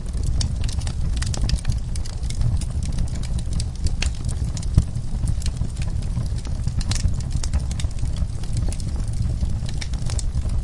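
Wood fire in a fireplace crackling, with irregular sharp pops over a steady low rumble; one pop about five seconds in is louder than the rest.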